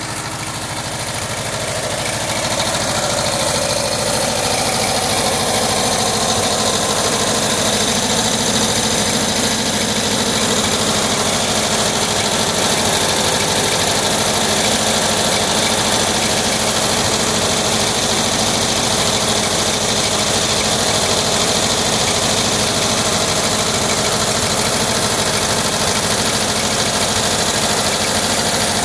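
1979 Volkswagen Type 2's 2-liter fuel-injected air-cooled flat-four engine idling, getting a little louder in the first few seconds, with a clanking like two glass bottles being banged together. The owner suspects the cooling fan, refitted in a different position after cleaning, is tapping against the magnesium fan housing.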